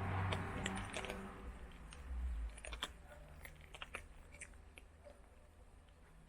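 A cat crunching dry food: irregular small crunches and clicks. They are louder and mixed with a rustling noise over the first two seconds, then go on quieter.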